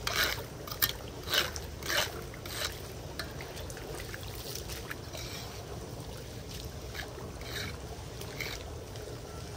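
Floodwater being stirred in a street drain: a run of five or six splashes in the first three seconds, then a steady wash of water flowing and trickling.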